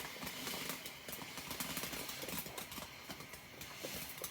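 Firework crackling: an irregular run of faint small pops and clicks.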